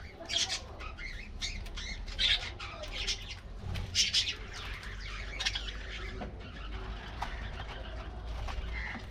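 A flock of budgerigars chattering, with many short chirps and squawks overlapping, busiest in the first half.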